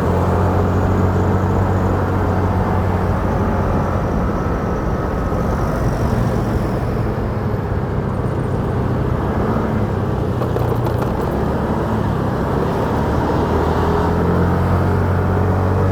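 Motorcycle engine running on the move, with road and wind noise, its engine note shifting a few times as the speed changes.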